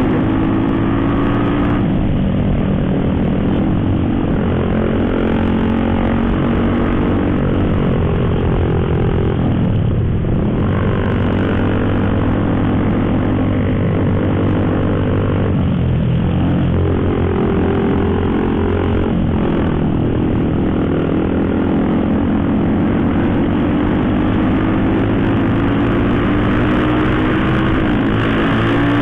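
Motorcycle engine running while riding, its pitch climbing steadily and then dropping sharply a few times as the rider accelerates and shifts up, over steady wind and road noise.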